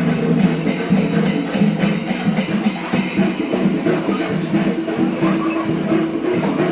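Kerala temple melam: chenda drums played with metal ilathalam hand cymbals clashing in a fast, even rhythm. A held wind-instrument tone joins in about four seconds in.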